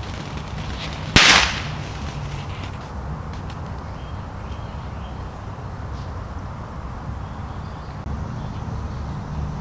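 A consumer firework going off: one sharp, loud bang about a second in, with a brief hiss trailing after it, over a steady low rumble.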